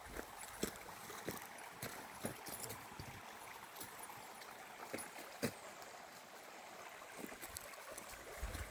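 Faint steady rush of a flowing river, with scattered light clicks and crunches of footsteps on the bank.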